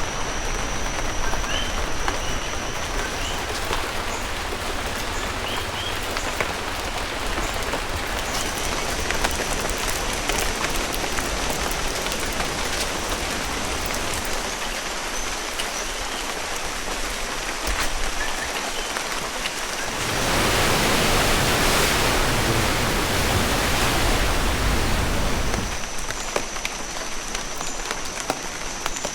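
Rain falling on rainforest foliage: a steady hiss with many separate drop hits, and a thin, steady high tone that comes and goes. From about two-thirds of the way through, a louder, fuller rush of water takes over for about six seconds, then the lighter rain returns.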